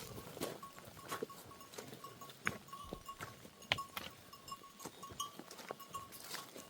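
A herd of goats, with scattered bleats and many short clicks and knocks as the animals move about.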